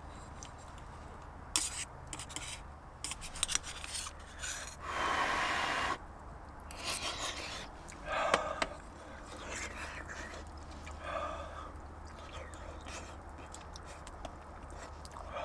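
Handling sounds: scattered clicks and knocks with rubbing and scraping, and a rush of noise lasting about a second around five seconds in.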